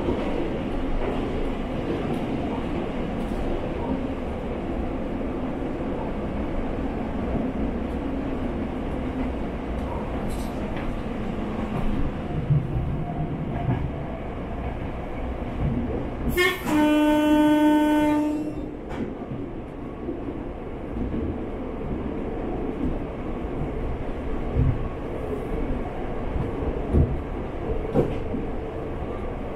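KTR700 diesel railcar running at speed, heard from inside the passenger cabin as a steady rumble of engine and wheels on the track. A little past halfway its horn sounds once, a single steady tone held for about two seconds. A few short knocks come near the end.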